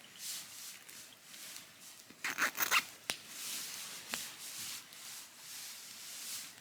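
Close rustling and rubbing handling noise, loudest in a short crackly stretch about two and a half seconds in, with a few sharp clicks.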